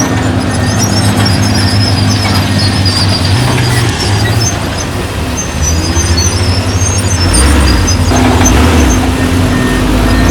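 Heavy diesel engines of earthmoving machinery running loud and steady. The engine note eases off about four seconds in, then comes back stronger and deeper from about eight seconds.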